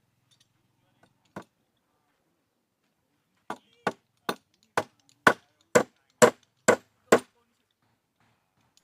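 Blows struck on wood in a woodworking job: one single strike, then a run of about nine evenly spaced strikes, roughly two a second, growing louder.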